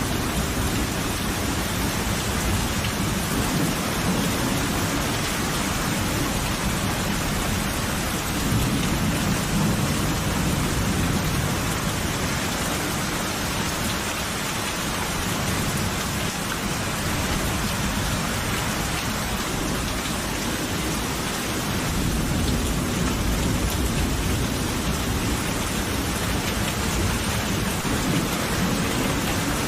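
Steady heavy rain with rolling thunder: a continuous hiss of rain, with low rumbles of thunder swelling about a third of the way in and again near the end.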